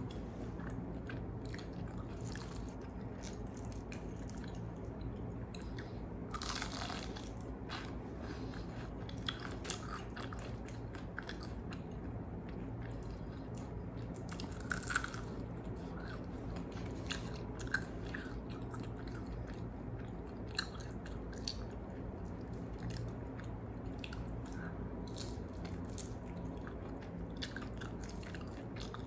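Close-up chewing and biting of crispy fried chicken wings: scattered crackling crunches of the fried skin over wet chewing, with a few louder crunches now and then.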